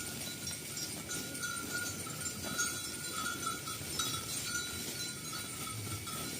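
Herd of cattle on the move, with a bell ringing steadily and wavering in strength, and a few light clicks.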